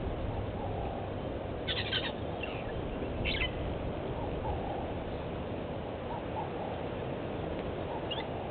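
Outdoor bush ambience with a steady low background rumble, over which a few short bird calls sound about two and three seconds in and again near the end.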